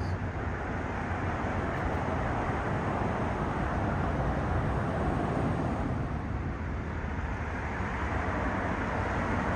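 Steady road-traffic noise, an even low rumble that swells and eases slightly, with no distinct events.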